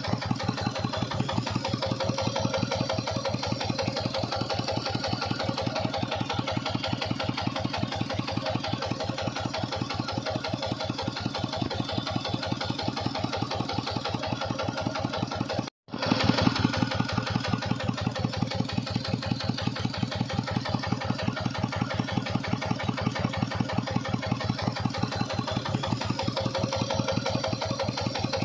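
Tractor engine running steadily with an even, rapid firing beat as it drives a water pump. The sound cuts out for an instant about halfway through, then the engine resumes at the same pace.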